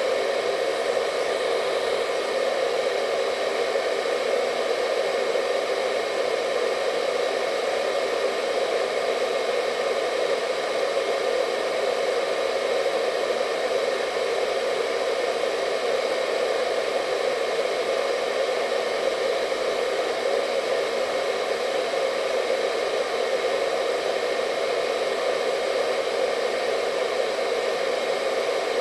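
Hair dryer running steadily with a constant airy whoosh and a faint whine over it, unchanging throughout.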